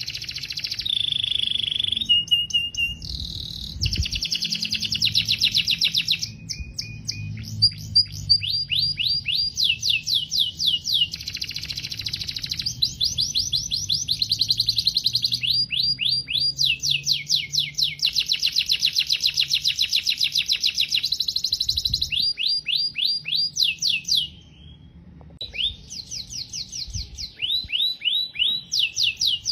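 Canary singing a long continuous song of rapid trilled phrases, each a fast run of repeated high notes, switching to a new trill every second or two, with a brief break about 24 seconds in.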